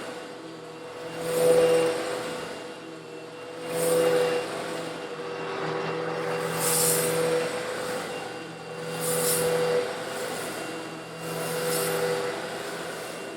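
An old Eureka vacuum cleaner running steadily, its motor humming as it sucks up small coarse stone granules. The hiss and rattle of the grit swells and fades about every two to three seconds.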